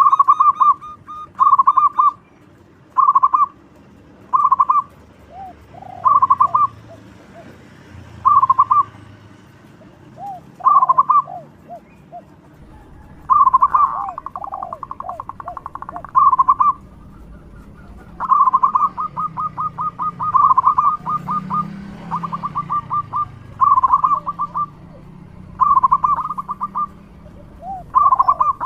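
Zebra dove singing loudly: repeated short phrases of quick staccato cooing notes, one every second or two, with longer runs of rapid notes around the middle and later.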